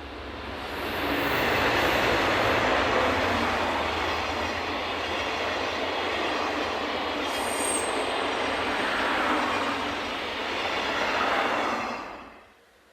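Freight train passing close by: a steady rumble and clatter of wheels on rail that builds quickly, with a brief high squeal about halfway, and cuts off abruptly near the end.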